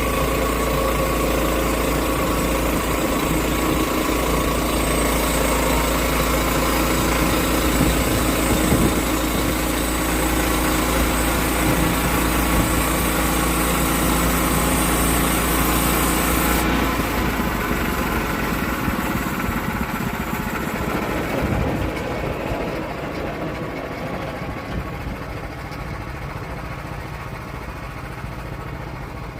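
Portable bandsaw mill's engine running as it cuts an oak log. About two-thirds of the way through the high, sharp part of the sound stops, and the running then slowly quietens toward the end.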